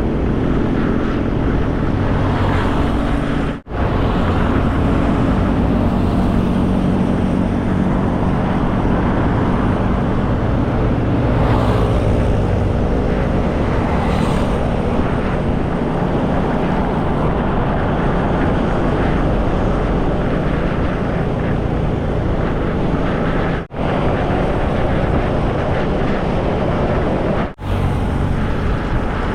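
Motorcycle riding at highway speed: wind rushing over the camera microphone over the engine and road noise. The sound cuts out briefly three times.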